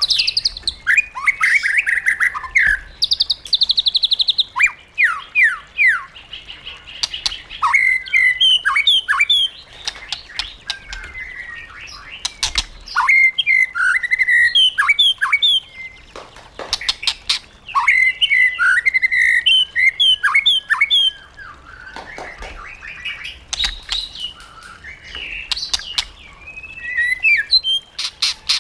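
White-rumped shama singing a long, varied song: phrases of clear whistled notes and rapid trills a few seconds apart, mixed with sharp clicks.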